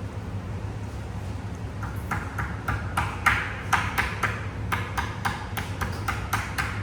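A run of light, sharp clinks and taps from coffee-brewing gear, about three a second, starting about two seconds in, over a steady low hum.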